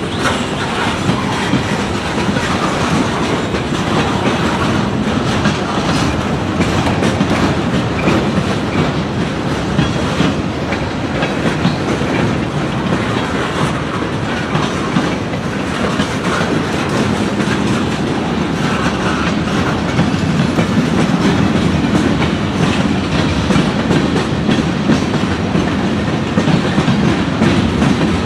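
Freight train cars rolling past close by, their wheels clattering steadily over the rail joints.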